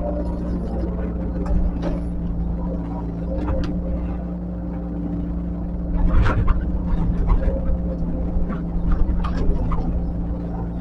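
Diesel engine of heavy earthmoving machinery running steadily, with a run of short knocks from about six seconds in.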